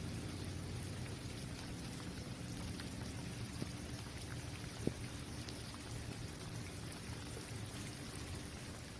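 Steady rain falling on an outdoor basketball court: a constant hiss over a low steady rumble, with scattered drops ticking and one sharper drop click about five seconds in.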